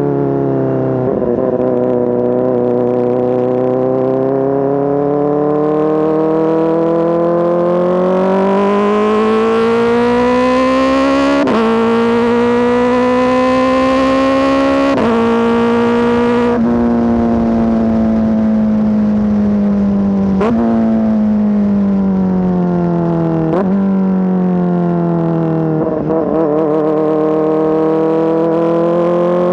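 Kawasaki ZX-4RR's inline-four engine through an SC-Project S1 exhaust, under way. The engine note climbs slowly for about sixteen seconds, with a few short breaks, then drops off as the throttle closes. It falls steadily before picking up and rising again near the end.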